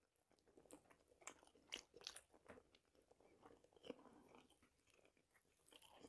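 Near silence with faint chewing of fried chicken leg and a few soft mouth clicks.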